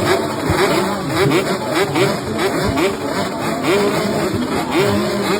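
Several motocross bikes racing, their engines revving up again and again in short rising sweeps, about two a second and overlapping, as the riders shift and pull away.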